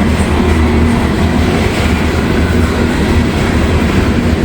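Loaded CSX coal train's hopper cars rolling slowly past, a steady noise of wheels on rail.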